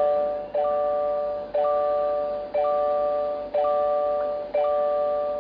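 Electronic warning chime in a car, a two-part chord sounding about once a second, each ding held nearly a second before the next.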